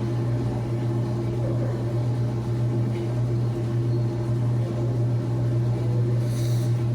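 Laundry-room washing machine running: a steady low electrical hum with even overtones, and a brief hiss near the end.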